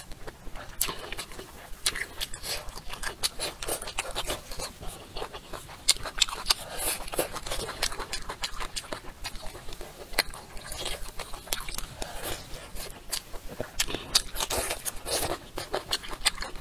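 Close-miked chewing and mouth sounds of someone eating: a dense, irregular run of wet smacks and crackly clicks as food is bitten and chewed.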